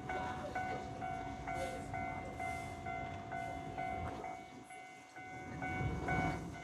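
Japanese railway level-crossing warning bell sounding its electronic ding about twice a second, with a train rumbling past that grows louder near the end.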